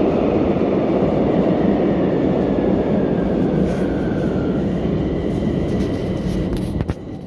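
Bucharest Metro train running, a dense steady rumble that fades toward the end as the train slows for a station, with a faint falling whine in the middle and a few sharp clicks near the end.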